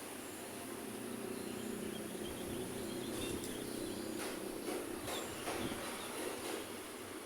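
Roadside city traffic: the engine and tyre noise of passing vehicles swells in the middle, over a steady high hiss.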